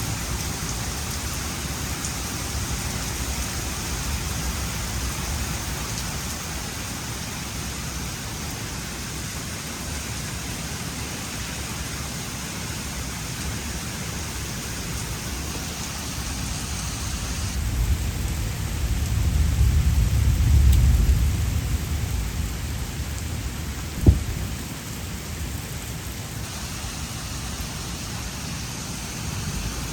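Steady rain from a supercell thunderstorm, with a long low rumble of thunder swelling about two-thirds of the way through, followed by a single sharp crack.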